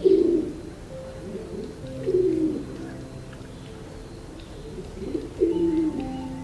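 Pied imperial pigeon cooing: three low coos, each sliding down in pitch, with soft background music underneath.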